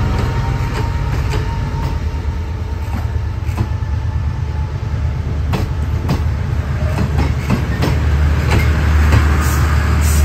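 Diesel-hauled passenger train moving slowly along the platform: a steady low drone with scattered clicks from wheels over the rail joints. The drone grows louder near the end.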